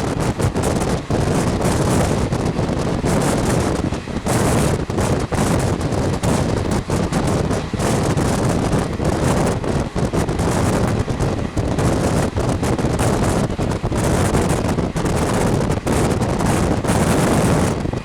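Wind buffeting the microphone of a camera held out of a moving passenger train, loud and gusty, over the train's low running rumble.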